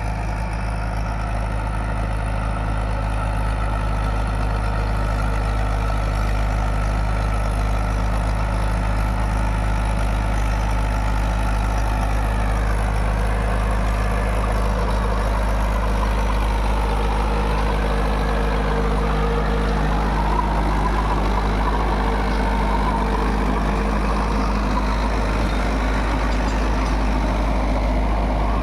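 Mahindra 475 DI tractor's four-cylinder diesel engine running steadily while it drives a rotavator through the soil. Its pitch wavers a little in the middle.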